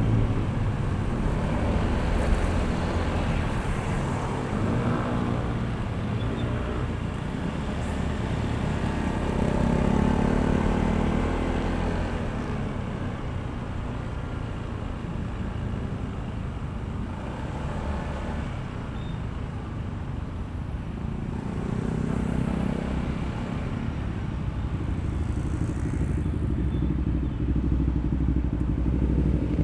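Honda ADV160 scooter's single-cylinder, liquid-cooled engine running while being ridden along the road. The engine note swells twice as the scooter accelerates, about a third of the way in and again past the middle.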